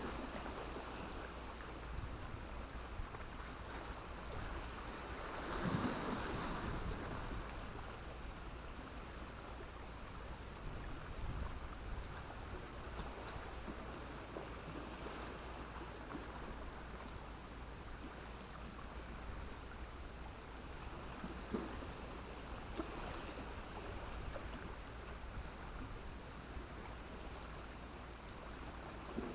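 Sea waves washing onto a beach of black stones and sand: a steady wash with a louder wave breaking about six seconds in and a smaller one a little past twenty seconds.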